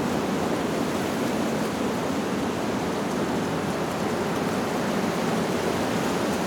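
Wind blowing through leaves, a steady, even rushing with no gusts or breaks.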